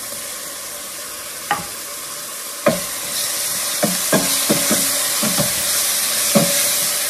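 Beetroot paste sizzling as it fries in hot oil in a stainless steel pot, being fried to cook off its raw smell. A metal spoon stirs it, clinking against the pot every second or so. The sizzle grows louder a little under three seconds in.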